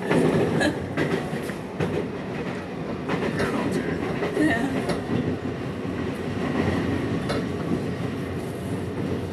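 Taiwan Railways local commuter train heard from inside the carriage while running at speed: a steady rumble with the wheels clicking over the rail joints.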